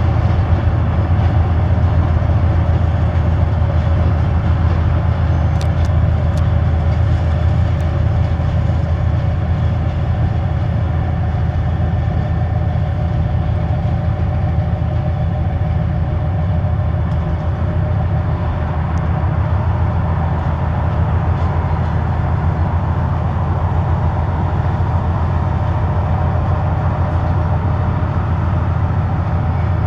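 Diesel locomotive engine running with a steady, loud low hum and a constant drone of tones above it.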